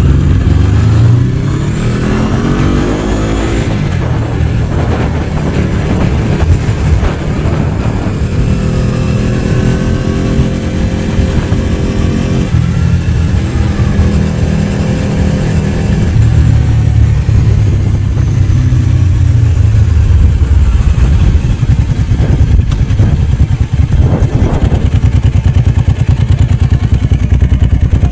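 Ducati 749's L-twin engine running while the bike is ridden, rising in pitch as it revs up over the first few seconds, then holding steadier with shifts in pitch as the throttle changes.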